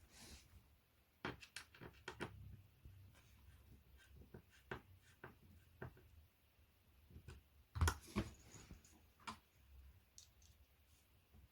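Faint, irregular clicks and knocks of flat-pack furniture parts and fittings being handled during assembly, with a louder double knock about eight seconds in.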